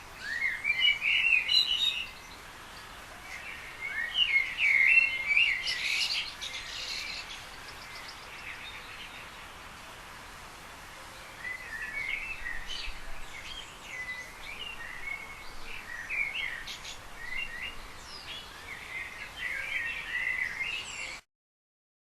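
Small songbirds chirping and singing in quick, twittering phrases over a steady background hiss. The song comes in bouts, busiest in the first two seconds, again around four to seven seconds in, and from about eleven seconds on, then cuts off suddenly near the end.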